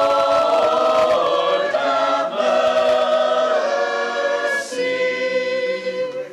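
Church choir singing a liturgical response in long held chords, moving to a new chord a few times.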